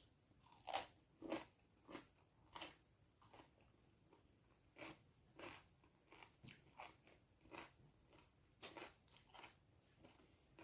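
Close-miked eating sounds of a person chewing a mouthful of vinegar-braised round scad (adobong paksiw na galunggong): a run of short, irregular chewing and smacking noises, about one or two a second, with a brief pause about four seconds in.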